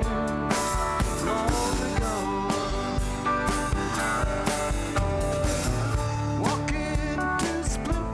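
A rock band playing live: drum kit keeping a steady beat under guitars and bass, with singing.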